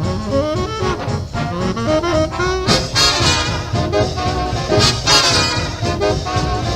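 Fast swing-jazz big band playing an instrumental passage: saxophones and brass with trombones and trumpets, the brass swelling in loud ensemble hits about halfway through and again near the end.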